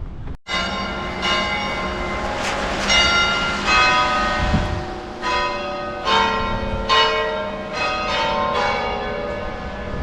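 Church bells pealing: several bells struck in turn, about one or two strikes a second, each note ringing on and overlapping the next.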